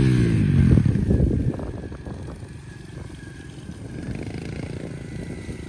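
Pit bike engine easing off, its revs dropping at the start, then running low and choppy before settling into a quieter steady running sound about two seconds in.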